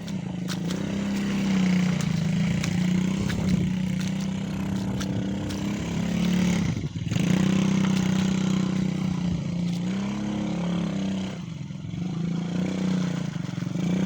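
Quad bike engine running under changing throttle, its pitch rising and falling, with a brief sharp drop about halfway through and another dip near the end.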